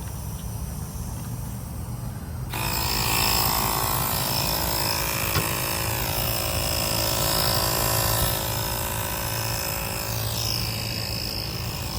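Low engine rumble, then about two and a half seconds in a loud mechanical whine with hiss starts suddenly and keeps going, with some shifting pitches in it.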